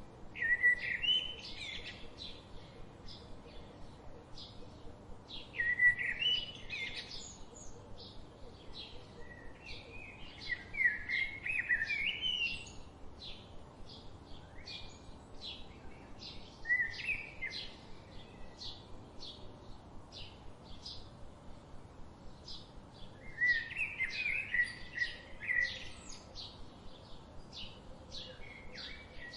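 Wild birds singing: one bird repeats a short high chip a few times a second throughout, while another sings short phrases of quick notes every few seconds, five phrases in all.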